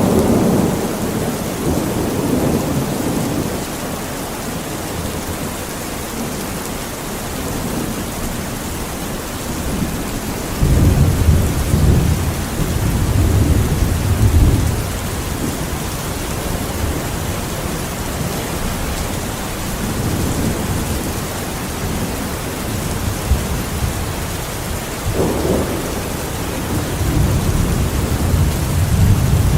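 Steady rain hissing, with rolling thunder rumbling at the start, again about a third of the way in, and once more building near the end.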